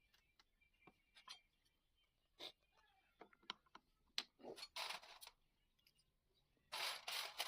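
Scattered faint clicks and short scraping or rustling sounds of small objects being handled, with a longer, louder rustle near the end.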